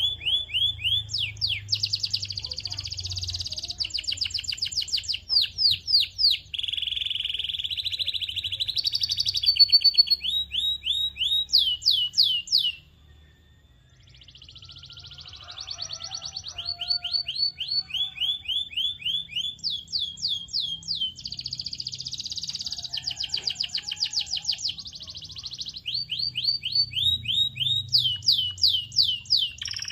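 Domestic canary singing: fast phrases of repeated notes that each sweep downward, alternating with buzzy trills. The song breaks off for about a second near the middle, then resumes.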